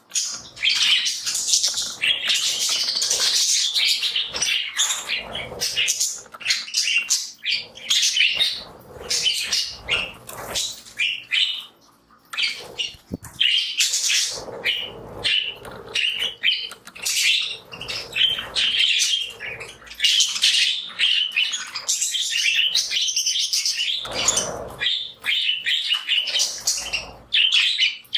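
A flock of budgies chirping and chattering almost without pause, in many overlapping high calls, with brief wing flaps among them.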